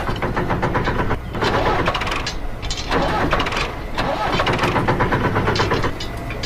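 Small engine running with a rapid, even firing rhythm. Its level surges and dips about every second and a half.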